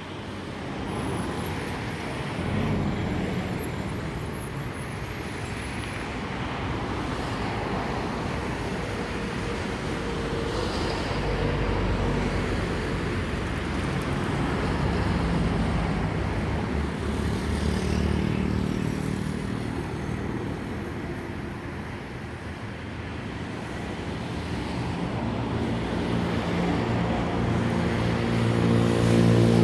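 Airbus A321 airliner's jet engines: a steady rushing noise that swells and eases, with a low engine tone growing louder and rising in pitch near the end.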